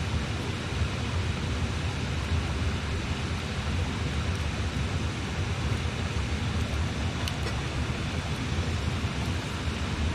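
Steady rush of flowing river water, with a few sharp pops from a wood campfire, two of them close together about seven seconds in.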